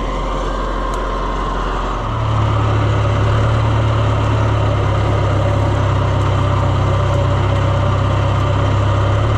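Vehicle engine running steadily; about two seconds in it picks up speed, rising in pitch and getting louder, then holds.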